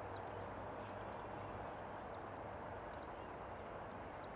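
A small bird repeatedly giving short, high chirps, roughly one a second, over a steady outdoor background hiss.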